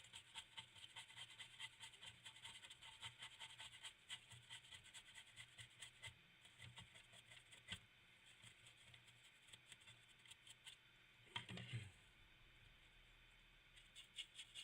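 Stiff brush scrubbing dried salt off a painted 3D-printed plastic model: faint, quick, short scratching strokes at about four a second, thinning out midway. A soft bump near the end.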